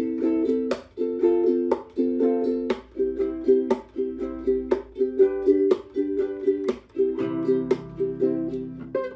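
Acoustic string instrument strummed in a steady rhythm, a repeating chord pattern with a strong strum about once a second and lighter strums between. A lower held note joins about seven seconds in.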